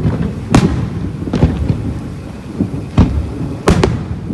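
Fireworks display: aerial shells bursting in several sharp booms, the loudest about half a second in and twice near three seconds, over a continuous low rumble of distant bursts.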